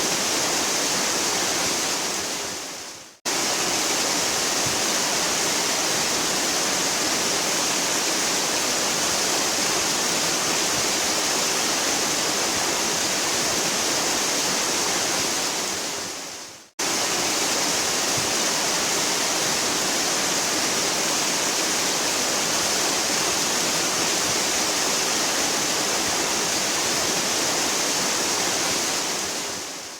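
Waterfall rushing in a steady, hissing roar. It fades out and abruptly cuts back in twice, about 3 and 17 seconds in, where recordings are spliced together.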